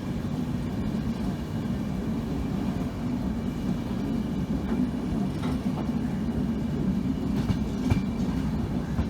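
Passenger train running: a steady low rumble of wheels on track, with a few sharp clicks in the second half.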